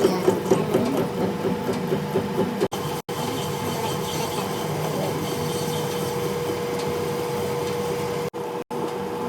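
Workshop machine running with a steady hum and a rough scraping, rubbing noise, which is busier in the first couple of seconds. The sound drops out briefly twice.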